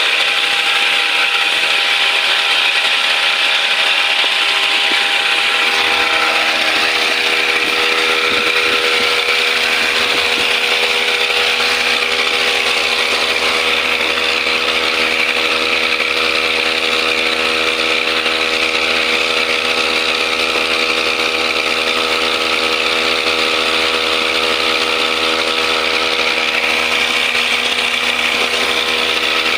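Brush cutter's small engine running steadily at high speed, with an even buzzing pitch, while being used to clean rice paddy.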